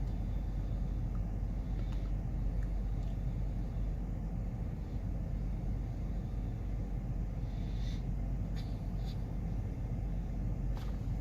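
Freight train cars rolling past, a steady low rumble with a few short metallic clicks and squeaks near the end.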